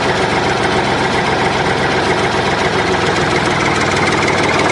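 Tractor engine idling steadily with a rapid, even beat.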